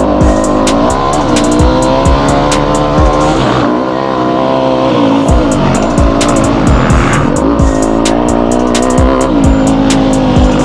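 Yamaha YZ250F's four-stroke single-cylinder engine being ridden hard, its pitch rising and falling repeatedly with throttle and gear changes. The engine drops away for about a second around four seconds in as the throttle is shut off, then comes back on.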